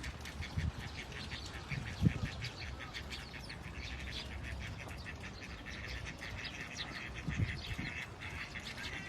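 A flock of birds calling in quick, overlapping chirps, with a couple of low thumps, one about two seconds in and one near the end.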